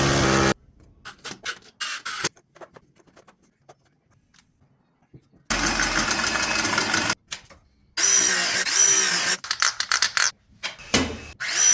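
Power tool motor run in several bursts, each trigger pull speeding up and winding down, with scattered clicks and knocks in the quieter stretches between.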